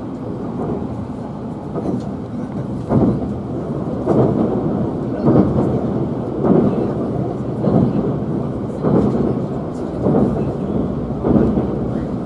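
Running rumble inside a Tobu 500 series Revaty limited express as it crosses a long river bridge. The deep noise swells in regular pulses about once a second from about three seconds in.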